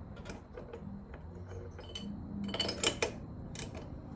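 Light metallic clinks and taps of hand tools and small parts being handled while a Stihl BR340 leaf blower's carburetor is reassembled, with a cluster of sharper clinks about two and a half to three seconds in.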